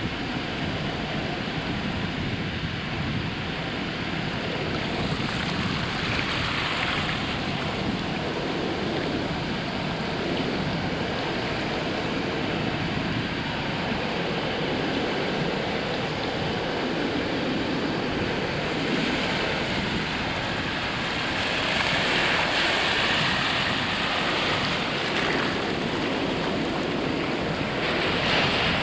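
Ocean surf breaking on a sandy beach: a steady wash of waves, with louder breakers about six seconds in, again a little past the twenty-second mark, and near the end.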